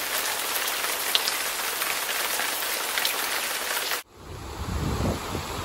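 Steady hiss of heavy rain with pattering drops, which cuts off abruptly about four seconds in. A low rumble of rushing floodwater and wind on the microphone follows.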